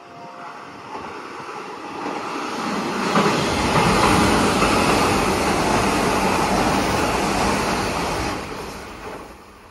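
Hanshin 8000-series electric train passing through a station without stopping. The noise of its wheels on the rails builds over the first three seconds, stays loud while the cars go by, and falls away sharply about nine seconds in.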